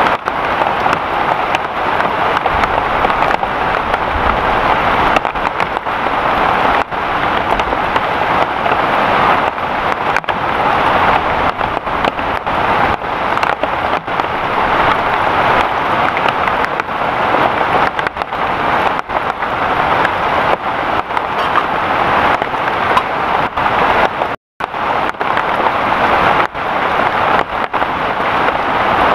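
Heavy rain falling steadily in a dense, even patter, with a split-second dropout a little past the 24-second mark.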